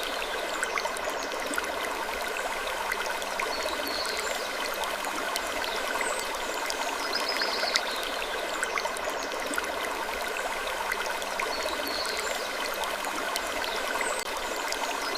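Wood creaking in short, slow creaks that come back about every four to five seconds, over a steady hiss full of small ticks.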